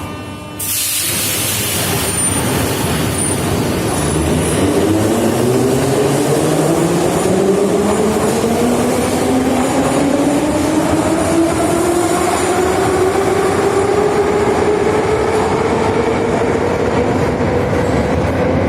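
81-717.5/714.5 'Nomernoy' metro train accelerating: the traction motors' whine rises steadily in pitch over wheel and track noise. The noise jumps louder about half a second in.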